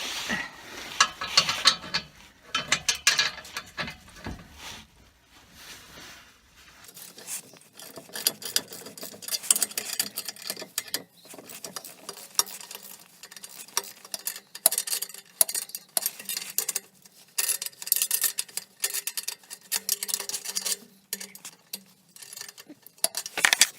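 Ratchet wrench clicking in quick runs, with metal clinks, as the exhaust mounting bolts are undone.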